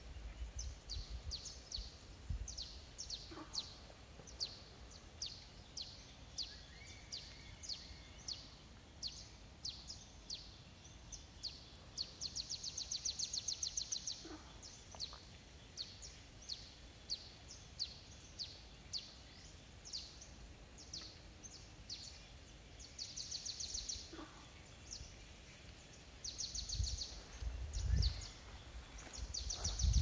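Birdsong: a bird repeats short, high, downward-slurred notes about twice a second, broken several times by rapid high trills. A few low thumps come near the end.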